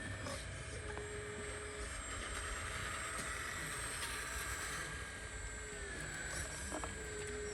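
Small electric motors of a radio-controlled construction machine whining in short steady tones over a constant hiss and low rumble, one whine dipping in pitch near the end.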